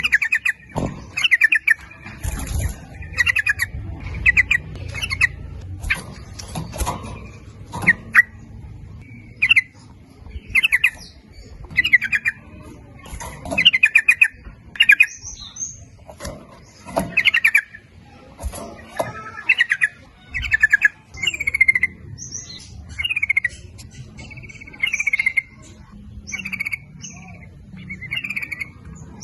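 Yellow-vented bulbul (trucukan) singing: short bubbly, chattering phrases repeated about once a second.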